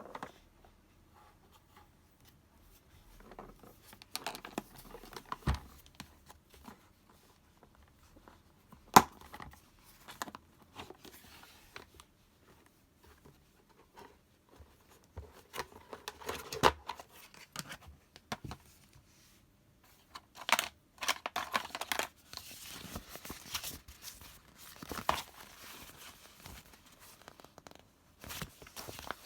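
Close-up crafting handling sounds: paper being torn and crinkled, with scattered sharp taps and clicks. The loudest tap comes about nine seconds in, and the crinkling is densest in the second half.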